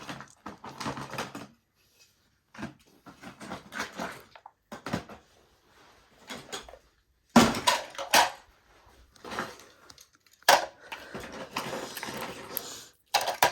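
Toy trains and their packaging being handled: irregular clattering and rustling in short bursts with brief pauses, the sharpest knocks about seven and ten seconds in.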